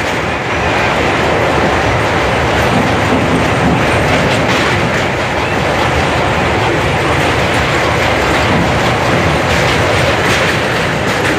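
Train wheels running on the rails of a steel truss railway bridge, heard from inside a passenger coach at an open window: a steady, loud rumble.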